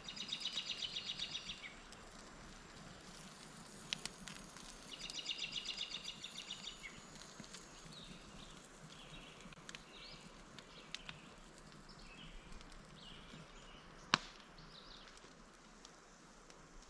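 A songbird singing a rapid, even trill twice, each about a second and a half long, followed by scattered short chirps. A single sharp snap comes about fourteen seconds in.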